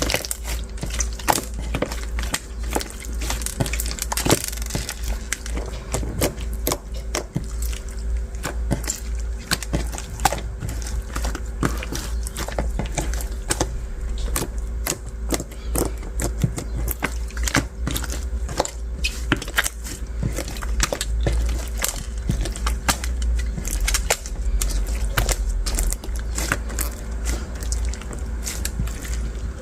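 Translucent slime with beads mixed in being pressed and squeezed by hand, giving a steady run of dense, irregular crackling clicks.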